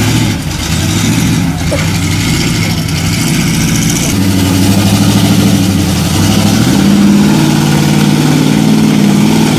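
Vehicle engine running steadily, its pitch stepping up about two-thirds of the way through.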